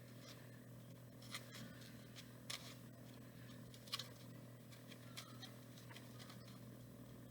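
Faint scattered taps and scrapes of twisted paper being pushed into a cardboard tube with a pencil, over a steady low hum.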